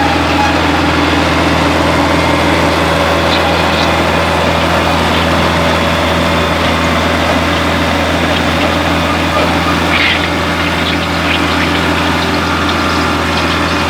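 Tractor engine running hard at a steady speed under load, pulling a sled in a tractor pull. It gives a steady, unbroken drone.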